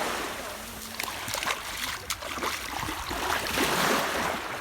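Shallow sea water splashing and small waves washing in, with sharp splashes in the middle and two louder swells of water noise.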